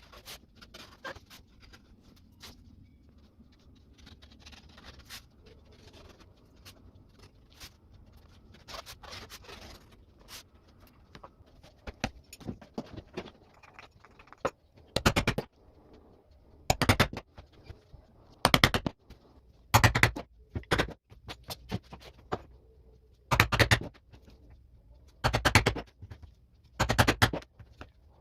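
Hand leatherwork: light scraping and tapping, then from about halfway a series of sharp hammer knocks, one every one and a half to two seconds.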